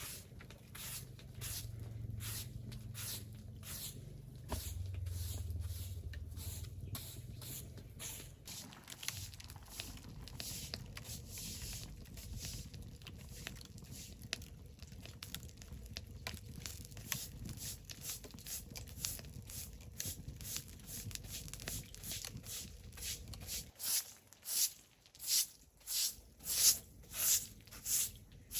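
Hand tool scraping earth in steady repeated strokes, about two a second, growing louder and more regular near the end, as soil is spread and levelled. A low rumble sits under the first several seconds.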